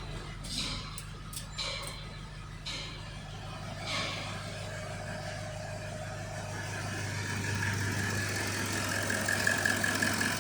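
Toyota Land Cruiser 4.5-litre engine running steadily at idle. A few short hissy noises come in the first four seconds, and a higher whine joins as it gets a little louder over the last few seconds.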